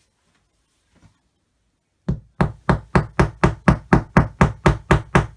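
Mallet tapping wooden dowels into the holes of a flat-pack cupboard panel: a quick, even run of knocks, about four a second, starting about two seconds in.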